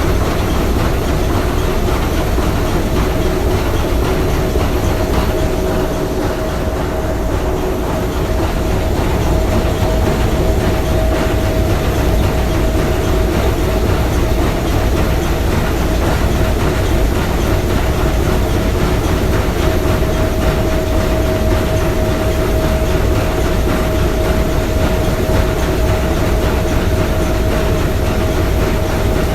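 Three-cylinder triple-expansion marine steam engine of the S.S. Bohuslän running steadily: a dense mechanical noise with a steady mid-pitched hum in it.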